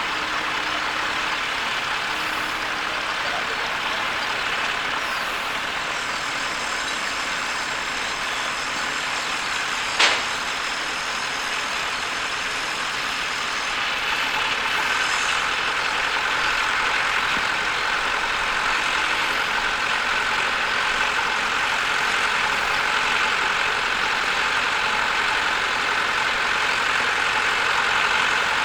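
Tractor engine running steadily, with a single sharp click about ten seconds in and a steady whine coming in about halfway through.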